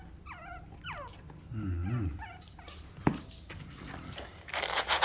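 Chihuahua puppies whimpering: several short, high, falling cries in the first second or so, then quieter ones. A sharp knock about three seconds in, and a loud rustling scrape near the end.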